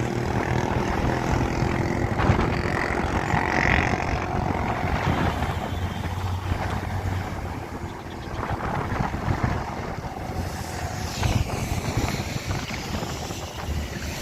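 Truck engine running with a steady low drone while driving on the road.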